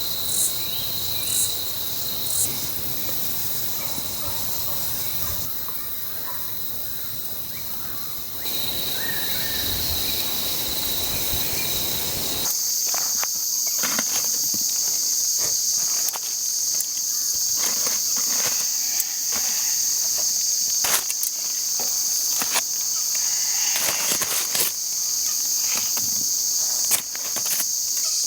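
Insects chirping in a steady, high-pitched drone. About twelve seconds in, the sound changes abruptly and a higher, louder insect chorus takes over. Scattered short clicks and knocks run through the second half.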